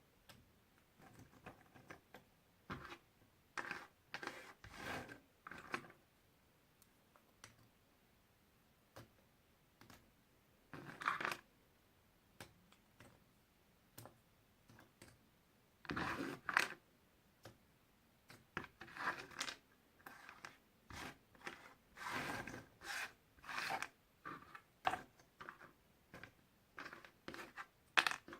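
Puzzle pieces being handled: irregular small clicks and taps, with short scraping rustles and a few longer rustling stretches in between.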